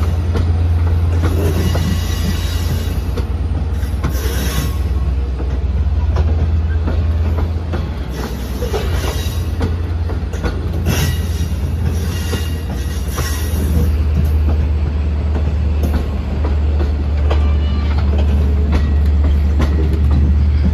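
Long Island Rail Road diesel train moving through, a steady low engine drone under repeated wheel clicks over rail joints, with intermittent high-pitched wheel squeal.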